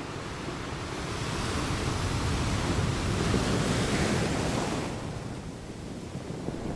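Ocean waves breaking on a sand beach. The hiss of a wave swells over a few seconds and dies away about five seconds in, over a steady low rumble of surf.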